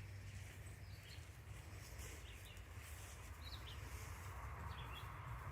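Quiet outdoor ambience: a steady low rumble with faint, short bird chirps now and then.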